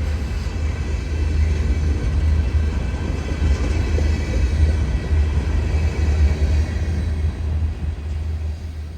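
Freight train rolling past trackside: a steady, heavy low rumble of locomotives and cars on the rails, easing off near the end.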